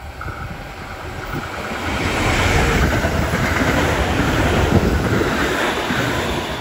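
Train hauled by an ED75 AC electric locomotive passing by, its rumble and wheel noise building to a peak in the middle and fading toward the end.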